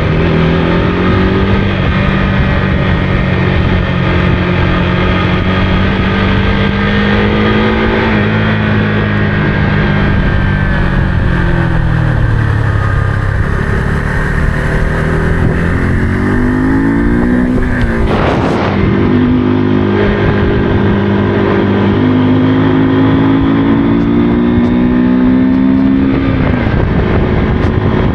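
Motorcycle engine running while riding, its note rising and falling with throttle and gear changes, with a brief rush of noise about eighteen seconds in.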